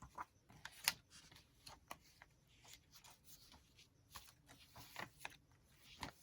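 Paper pages of a handmade junk journal being turned and handled: soft, scattered rustles and light flicks. The sharpest flicks come about a second in and near the end.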